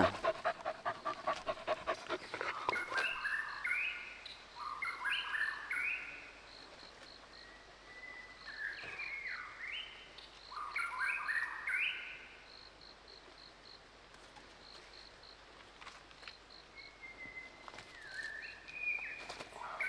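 A dog panting fast for the first few seconds. Then a bird sings repeated phrases of short stepped notes, in two spells with a pause between them, over a low outdoor hiss.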